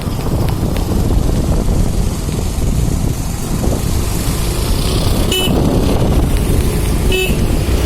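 Steady rumble of a moving road vehicle with wind on the microphone, and two short horn toots, about five and seven seconds in.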